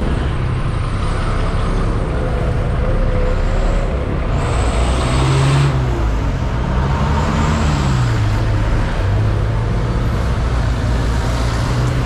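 CFMoto 400NK parallel-twin motorcycle engine running under way with wind rush, its pitch rising and falling with the throttle around the middle and then holding steady.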